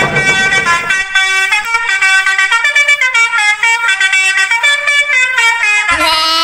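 Musical truck horn playing a tune of stepped notes, one after another, then a louder, deeper horn blast about six seconds in.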